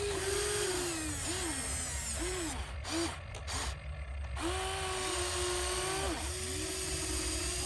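Small electric gear motors of a toy RC construction vehicle whining, spinning up and winding down in several short spurts, then running steadily in two longer stretches.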